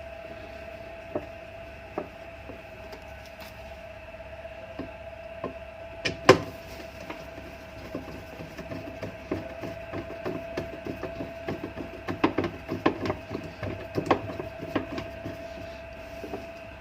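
The nut being put back on and tightened over a washing machine's pulsator. Scattered clicks and knocks of tool on nut and metal, one louder knock about six seconds in and quicker, busier clicking in the second half, over a steady faint hum.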